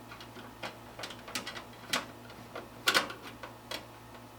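Irregular small clicks and knocks of hardware being handled inside a desktop computer case, as screws are undone and the graphics card is worked loose. The loudest knock comes about three seconds in.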